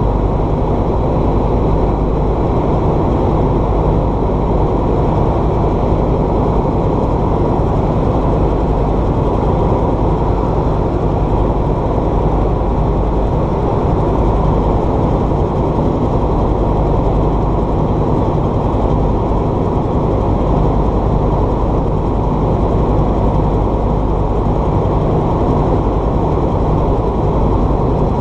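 Light aircraft engine and propeller running steadily, a continuous even drone with no change in speed.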